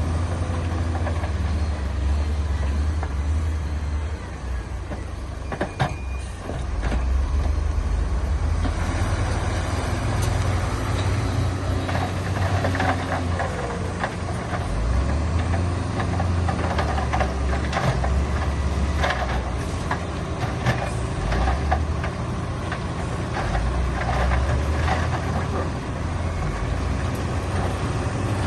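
Heavy diesel earthmoving machine engine running with a deep rumble that rises and falls under load. From about nine seconds in, it comes with frequent knocks and clanks.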